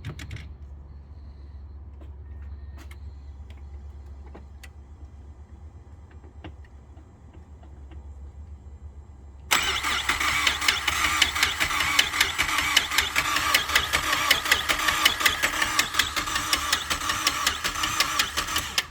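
Mazdaspeed 3's turbocharged four-cylinder being cranked on the starter for about nine seconds without firing, because the ignition ground is not connected. It cranks with a fast, even ticking, which the owner blames on a lifter, then stops abruptly. Before the cranking there is only a low hum.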